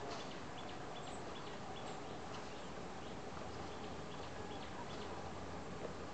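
Birds chirping in short, repeated calls, thicker in the first half, over a steady outdoor hiss.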